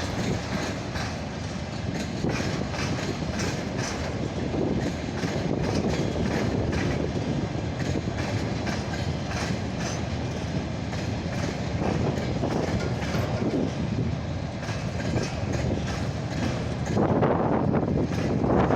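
A freight train rolling past, with a steady rumble from the wagons and the wheels clacking over the rail joints. It grows louder near the end.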